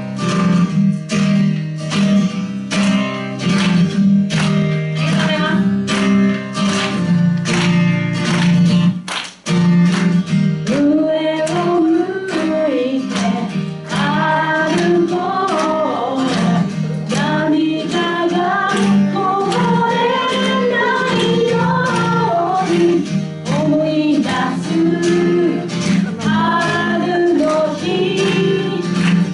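Acoustic guitar strummed in a steady rhythm as a song intro, breaking off briefly about nine seconds in; a woman's singing voice then comes in over the guitar.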